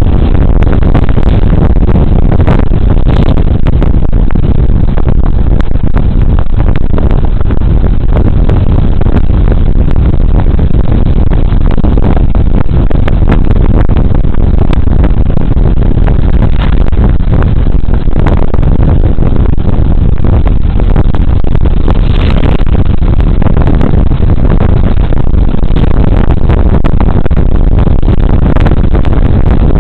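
Steady, loud ride noise from a Suzuki Burgman Street 125 scooter on the move: wind rumbling over a body camera's microphone, mixed with the scooter's single-cylinder engine and road noise.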